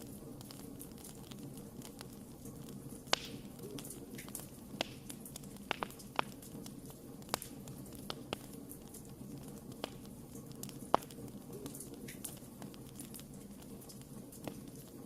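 Wood fire burning with a steady low rushing and irregular sharp crackles and pops, two louder snaps about three seconds in and near eleven seconds.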